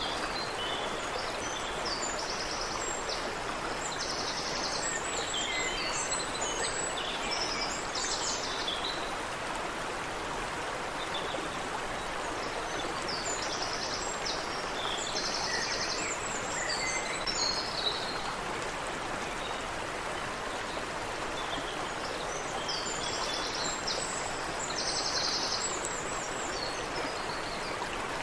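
Water running in a creek, a steady rushing, with a songbird singing a phrase of high chirps and quick trills three times, about every ten seconds.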